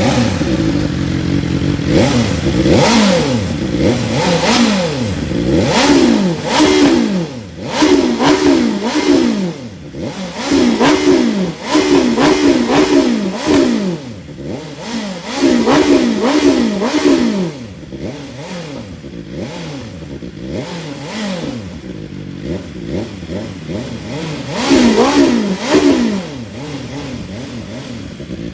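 BMW S1000XR's inline-four engine revved in repeated quick throttle blips, the pitch jumping up and falling back in clusters, dropping to idle between them, with a long idle stretch before a last pair of blips near the end. It breathes through a slip-on exhaust with the catalytic converter still in place, so it is not that loud.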